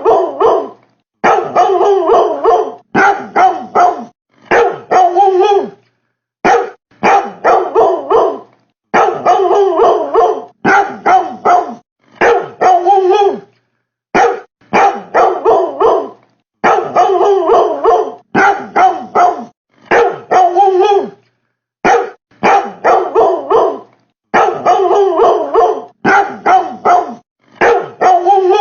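Dog barking in quick runs of several short barks each, separated by short gaps of silence that cut in abruptly.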